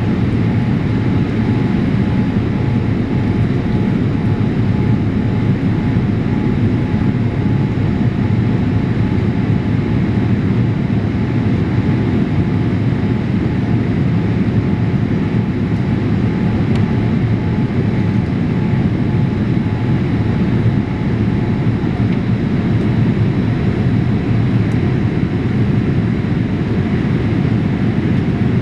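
Steady, unchanging engine and airflow rumble heard inside the passenger cabin of an ANA Boeing 787-8 Dreamliner airliner.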